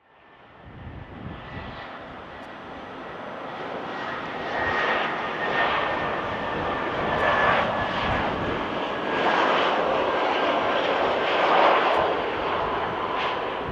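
Jet engines of an Airbus A220-300 at takeoff thrust, its Pratt & Whitney PW1500G geared turbofans. The roar swells over the first few seconds, then holds loud and wavering, with a faint whine that slowly falls in pitch.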